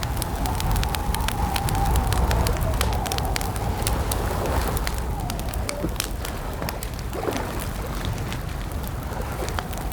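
Campfire crackling, with frequent sharp pops and snaps over a low steady rumble, and a wavering whistling tone that dips in pitch now and then.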